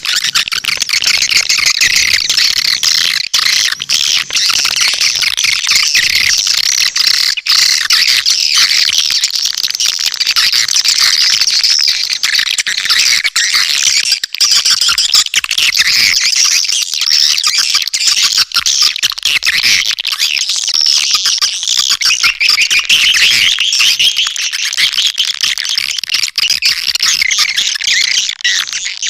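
Swiftlet calling sound: a dense, continuous chorus of rapid, high chirps and twitters from many swiftlets, the kind of recording played to lure swiftlets into a nesting house.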